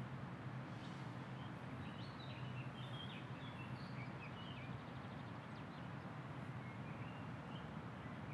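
Faint park ambience: small birds chirping, a scattering of short high calls from about two seconds in until about seven seconds, over a steady low background hum.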